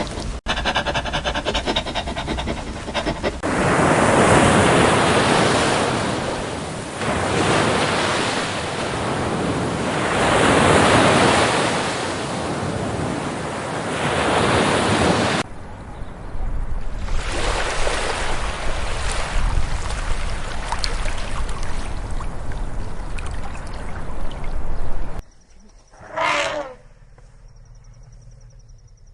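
Ocean surf washing in and out, its rush swelling and fading every few seconds. Near the end it cuts off suddenly to quiet, broken by one brief pitched sound.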